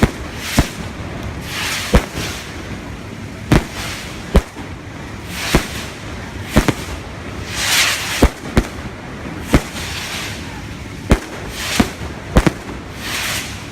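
Fireworks going off: a string of loud, sharp bangs about one a second, with hissing whooshes between some of them.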